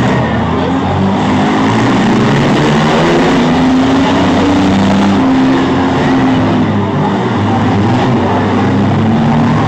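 Engines of several demolition derby mini-vans, trucks and SUVs revving hard, their pitch rising and falling as they accelerate and back off.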